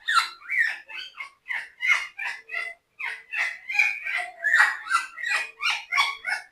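African grey parrot whispering: a rapid string of hissy, speech-like syllables, about four or five a second, with a short break about three seconds in.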